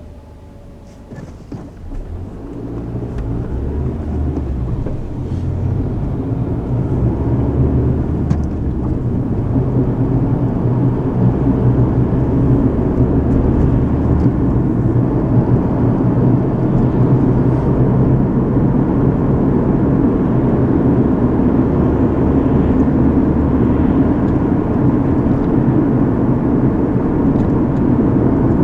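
Car engine and road noise heard from inside the cabin as the car pulls away and speeds up over the first several seconds, then settles into a steady cruising drone.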